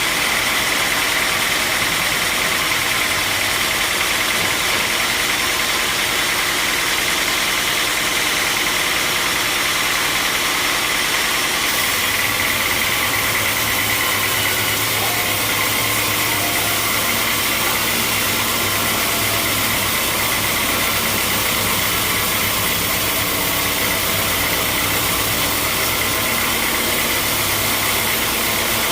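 Sawmill machinery running steadily: a loud, even mechanical din with a hiss on top. About twelve seconds in the sound changes abruptly and a low hum comes in.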